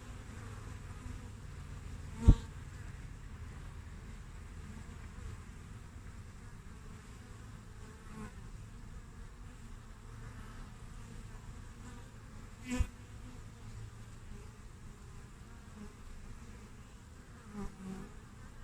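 Honeybees buzzing steadily at a hive entrance, with two sudden short loud buzzes, about two seconds in and again about thirteen seconds in, as bees fly right up to the microphone.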